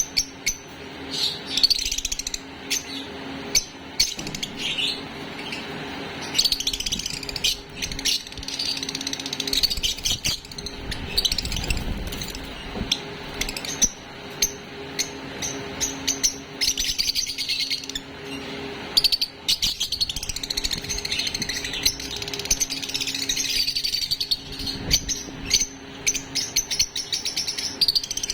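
Baby lovebirds chirping repeatedly in short high calls, with scattered sharp clicks, over a steady low hum.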